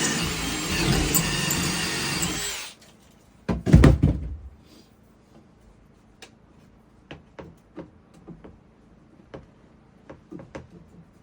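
Power drill running steadily, then stopping suddenly under 3 seconds in. A few heavy knocks of wood follow, then scattered light clicks and taps.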